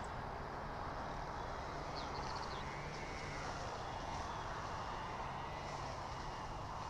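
Steady outdoor background noise from a nest-cam microphone, with a small bird giving a quick run of high chirps about two seconds in and a few faint whistles later.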